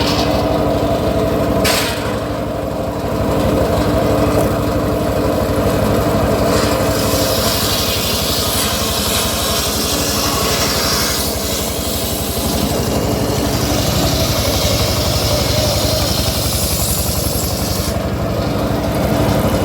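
Engine of a homemade circular sawmill running steadily at a constant speed, with a brief sharp knock about two seconds in.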